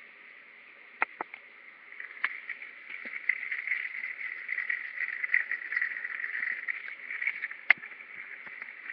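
Shower water running and spraying, swelling about two seconds in and easing near the end, with a few sharp knocks, the loudest shortly before the end.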